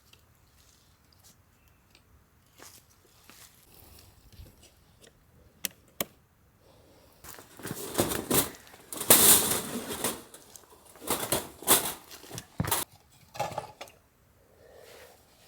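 Scattered handling noises: rustling and scraping with a few sharp clicks, loudest about eight to ten seconds in.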